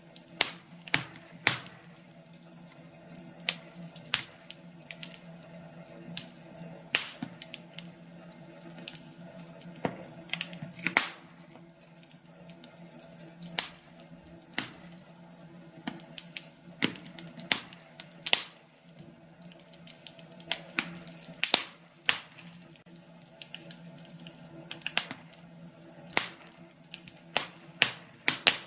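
Wood fire crackling, with irregular sharp pops and snaps from the burning logs over a faint steady low background.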